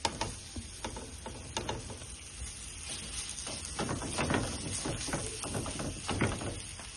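Mixture frying in an oiled pan with a faint steady sizzle, and scattered clicks and scrapes of a utensil working in the pan, busier in the second half.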